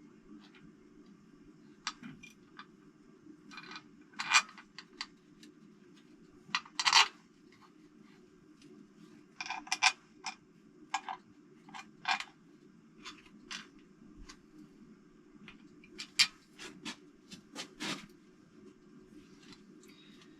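Loose metal bolts and nuts clinking and clattering against each other in scattered, irregular clicks as they are sorted through by hand on a table, over a steady low hum.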